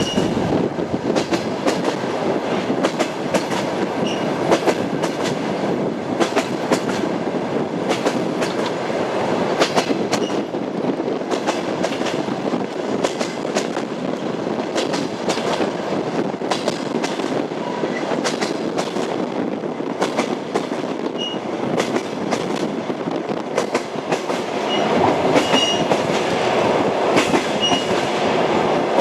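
Train wheels clattering over rail joints and the steady rumble of a moving railway carriage, with sharp clicks coming irregularly. Brief faint squeaks are heard now and then, and the rumble grows a little louder near the end.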